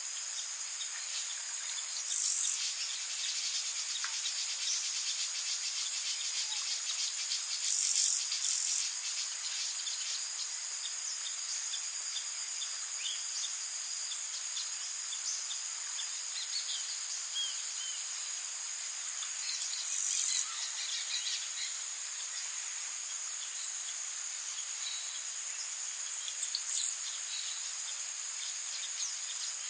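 Tropical rainforest ambience: a steady hiss of rain under a constant high-pitched chorus of crickets and other insects, with scattered bird chirps. Five short, louder high-pitched bursts stand out: about two seconds in, twice close together around eight seconds, around twenty seconds, and near the end.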